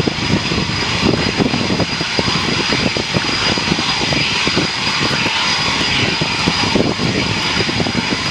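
Jet engines of an RAF Eurofighter Typhoon running with a loud, steady rush and a high whine held throughout.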